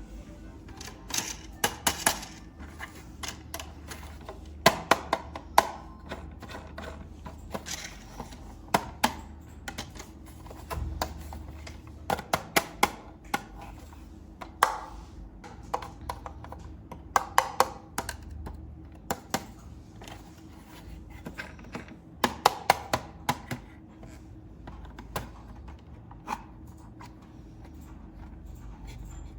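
Hard plastic parts being handled: irregular clusters of sharp clicks and taps, a few in quick succession, then short pauses.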